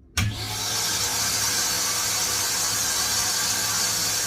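Vacuum cleaner motor switched on, starting abruptly and then running steadily with a loud airy hiss over a low hum.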